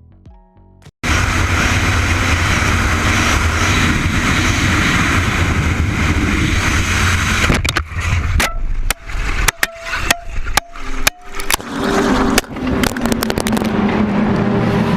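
Faint music cuts off about a second in to loud, steady car road and engine noise as heard on a dashcam. After about seven and a half seconds the noise turns choppy, with uneven knocks, short dropouts and a few brief tones.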